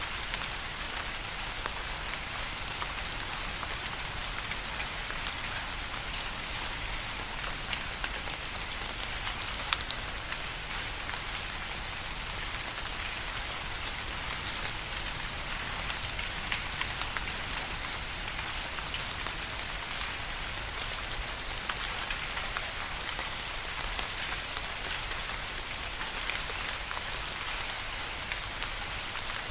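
Steady rain falling on a surface: an even hiss of rainfall with many individual drops pattering through it and a few louder single drop hits.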